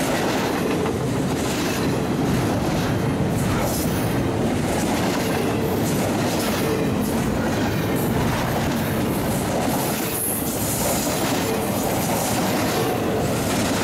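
Double-stack intermodal freight train rolling past at close range: a steady loud rumble of steel wheels on rail with clicking over the rail joints, and a brief high wheel squeal about ten seconds in.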